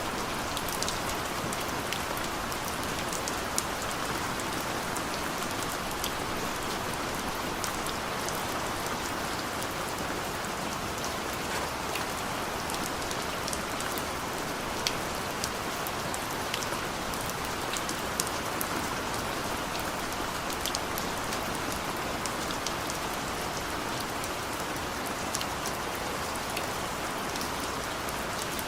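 Steady rain falling: an even hiss dotted with many sharp, close drop ticks.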